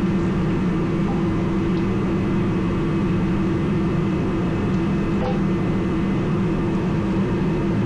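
A heater running with a steady, unbroken drone and a low hum, with a faint click about five seconds in.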